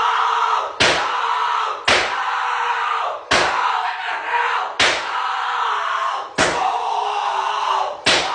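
A loud sound effect played over and over, six fresh starts: each begins with a sudden hit and runs on as a noisy wash for a second or so, cut off sharply as the next one starts.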